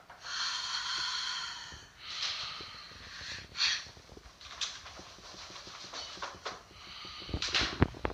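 Played-back eerie audio recording: a series of harsh hissing rasps, each a second or two long or shorter, with a cluster of sharp clicks near the end.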